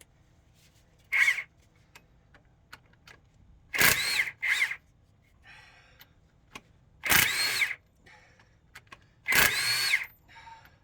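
Cordless power tool run in five short bursts, its motor whining up and down in pitch, backing out the 9/16 bolts on a Cat C0.5 APU engine's crankshaft pulley.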